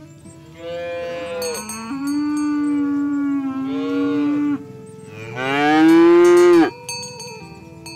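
Cattle mooing: a long low moo lasting about four seconds, then a second, louder moo that rises in pitch and cuts off abruptly.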